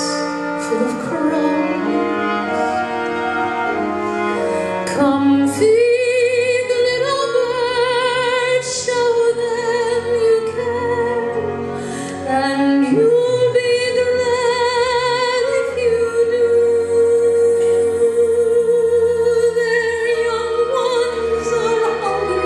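A woman singing a slow ballad in a classical style, holding long notes with vibrato, over an orchestral accompaniment with strings.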